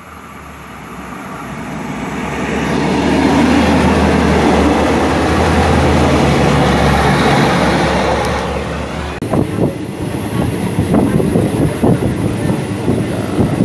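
Passenger train passing close by on the adjacent track: its rush builds over the first few seconds, holds loud with a low steady hum underneath, and falls away sharply after about nine seconds. After that come irregular knocks and rattles.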